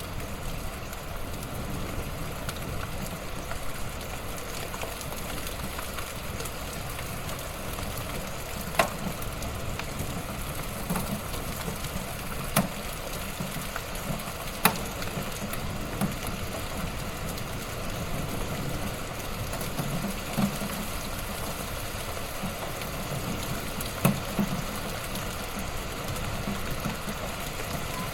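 Wood fire in a fireplace crackling steadily, with a few louder sharp pops scattered through.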